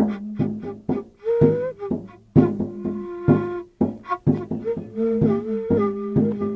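Live instrumental music: a droning instrument holds a low note while higher notes shift above it, over frequent percussive strikes.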